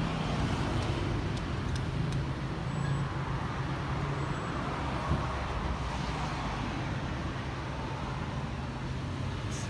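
Steady low hum of a motor vehicle engine running nearby, with one short knock about halfway through.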